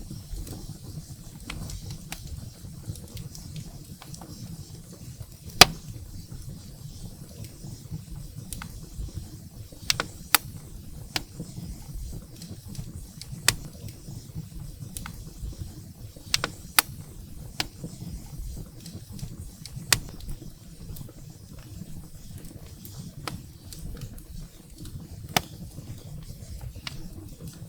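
Wood fire burning in a fireplace: a low, steady rumble of flames with sharp pops and snaps of burning firewood scattered throughout, the loudest about five and a half seconds in.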